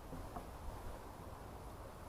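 Faint, steady outdoor background hiss with a low rumble from the trail camera's microphone, and a single faint brief tick about half a second in.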